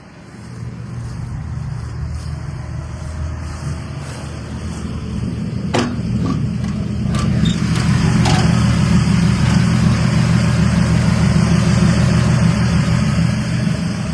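The car's six-cylinder engine, a 1970s Dodge Dart unit, running steadily, growing louder about halfway through, with a few sharp clicks near the middle.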